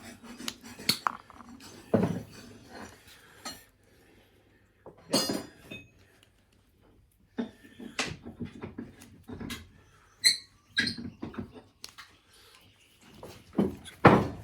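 Small hard objects being handled and set down on a workbench: scattered clicks, knocks and clinks with a couple of short squeaks, broken by brief pauses.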